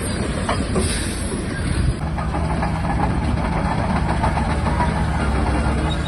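Shantui DH17-C3 bulldozer's diesel engine running steadily, with the clanking rattle of its steel tracks.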